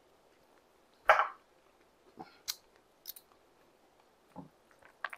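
A person chewing a mouthful of hot food, with one short, loud breathy sound about a second in. After it come a few light clicks and a soft knock of a fork against a ceramic serving bowl.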